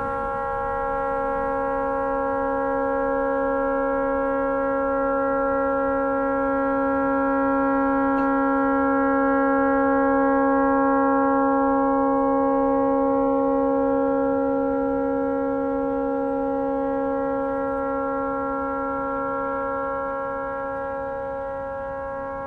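Tugboat's air horn stuck on, sounding one continuous chord-like blast without a break, swelling slightly and easing off again. The horn has malfunctioned and cannot be shut off.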